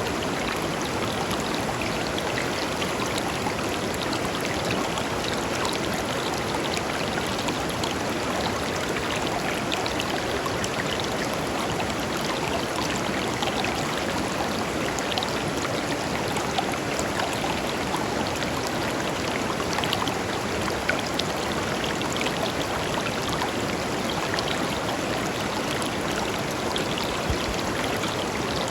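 A clear river or stream flowing over stones: a steady rush of water with many small splashes and trickles.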